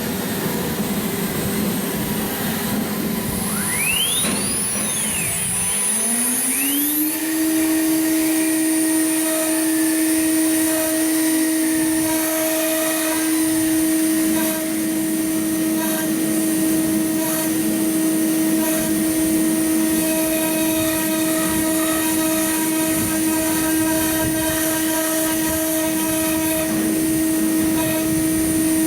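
Spindle of an ATC CNC router spinning up: its whine rises in pitch from about three to seven seconds in, then holds as one steady high whine as the spindle runs at speed, over a constant machine noise.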